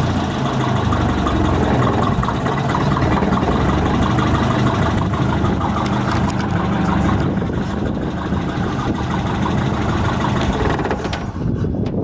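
A 1955 Lyman Islander boat's inboard engine idling steadily, then going quiet about eleven seconds in, as if shut off.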